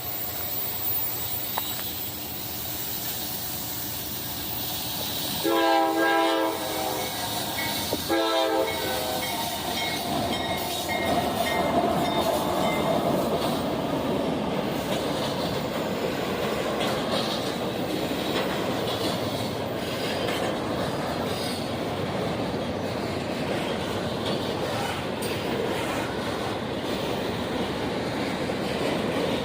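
Locomotive horn sounding two blasts, a longer one of about a second and then a short one, followed by a train passing close by with steady rumble and wheel noise on the rails.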